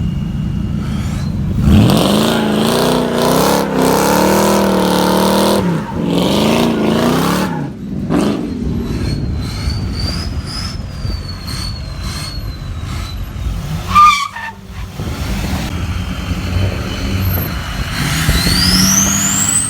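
A vehicle engine revving up sharply about two seconds in and held at high revs for a few seconds, then revving again, with a sharp high squeal near the middle and a rising high whine near the end.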